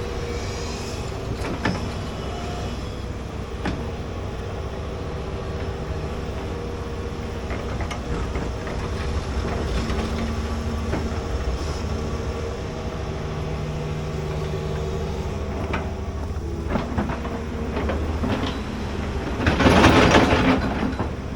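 A large hydraulic excavator running steadily while it digs, with scattered clanks and knocks. Near the end a louder rushing swell rises and falls over about two seconds.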